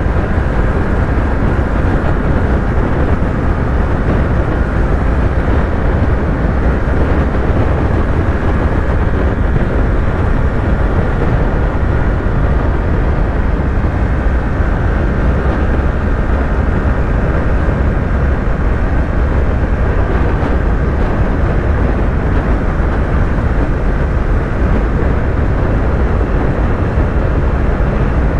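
Yamaha YZF-R3's 321 cc parallel-twin engine running steadily at highway cruising speed, its pitch holding flat with no gear changes, under heavy wind rush.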